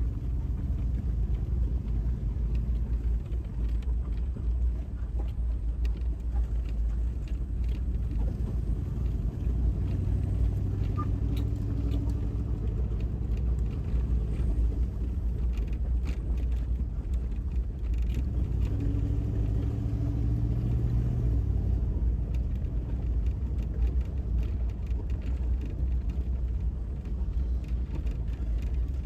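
1999 Chevy Tahoe's 5.7 L Vortec V8 and drivetrain rumbling steadily as the 4x4 drives along a dirt trail, the engine note rising twice under throttle, about ten seconds in and again around twenty seconds in, with light knocks and rattles from the bumpy ground.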